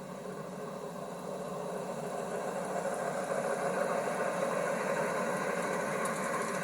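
A train running and drawing nearer: its steady mechanical drone grows louder over the first four seconds, then holds, with faint ticking coming in near the end.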